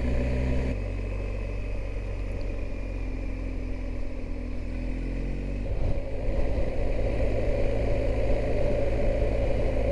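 Motorcycle engine running on the move, heard from on board with wind and road noise. The engine note shifts about a second in, and the sound grows louder about six seconds in as it pulls harder.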